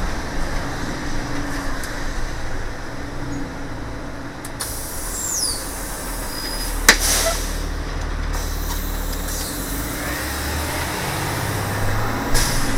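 School bus diesel engine running low at a railroad-crossing stop. There is a short high squeal about five seconds in, and a sharp click with a rush of air about seven seconds in.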